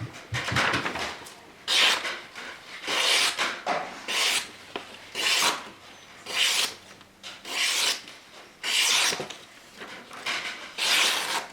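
Steel knife blade being stroked back and forth across a coarse King Deluxe 300 grit waterstone, a gritty rasp on each pass. The strokes come at about one a second, each with a hiss.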